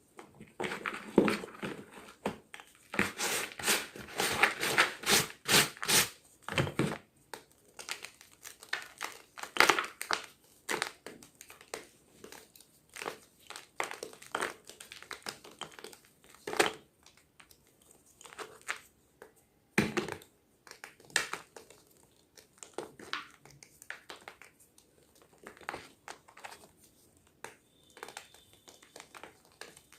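Gym chalk being crushed and crumbled: an irregular run of dry crunches, densest a few seconds in and sparser afterwards.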